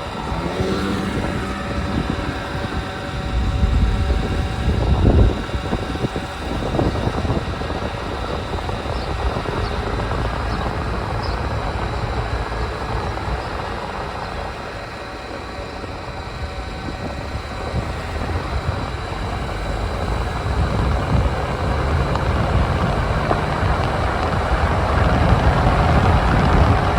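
Car driving, with a steady engine and road rumble heard from inside the cabin that swells a little a few seconds in and again near the end.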